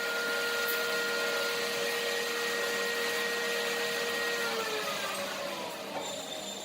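An electric motor running with a steady whine over a noisy hiss. About four and a half seconds in, it winds down with falling pitch, as when it is switched off.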